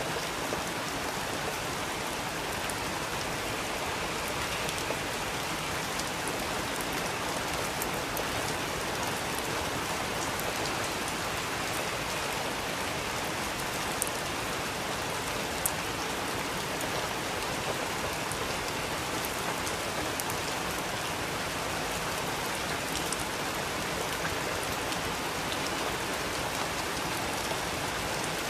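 Steady rain falling on a surface, a continuous even patter with individual drops ticking now and then, a couple of them louder about halfway through.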